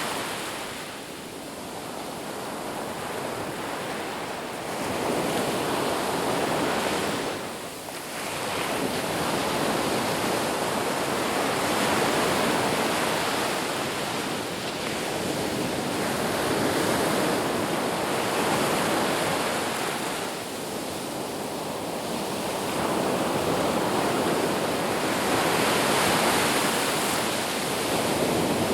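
Sea waves washing in, a continuous rush of surf that swells and eases every several seconds, with a brief lull about eight seconds in.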